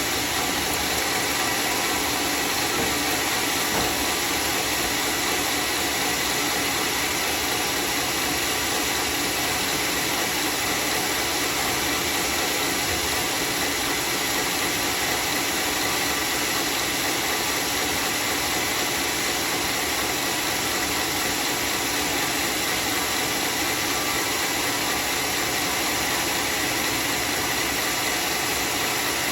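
Homemade circular-saw sawmill running steadily through teak wood: an even, unbroken noise with a faint high whine.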